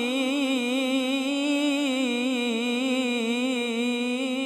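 A male reciter singing an Islamic ibtihal, holding one long melismatic note with a steady, wavering vibrato on the word 'sa'id'.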